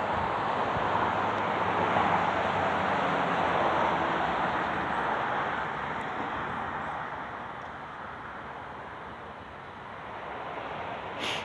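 Norfolk Southern coal train rolling past: the steady rumbling noise of a freight train's steel wheels on the rails. It eases off about seven seconds in, and there is a short click near the end.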